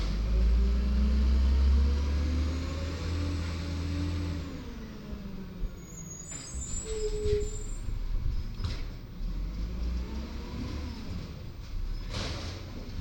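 Garbage truck's diesel engine rising in pitch for a few seconds, then dropping back to a quieter run. Short air-brake hisses follow, with a brief high squeal in between.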